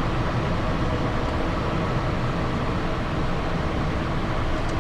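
Steady rush of airflow and turbofan engine noise inside a Cessna Citation XLS cockpit.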